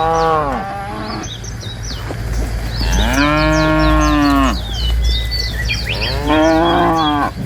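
Cows mooing, three separate moos: a short falling one at the start, a longer one of about a second and a half in the middle, and a shorter one near the end. High chirps sound behind them throughout.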